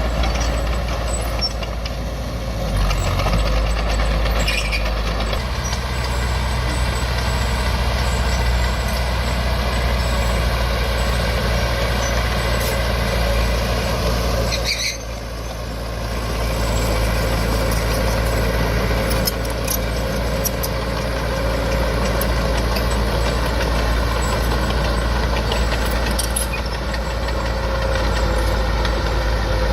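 Diesel engine of heavy earthmoving machinery running steadily under load. About halfway through the sound dips briefly, with a short high whistle, then picks up again.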